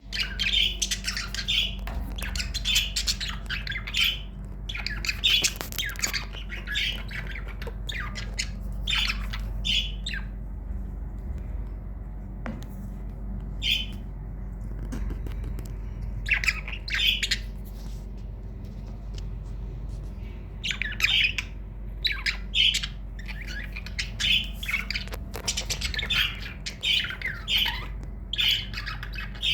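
Budgerigars chirping and squawking in short bursts, with a quieter lull in the middle; a steady low hum runs underneath.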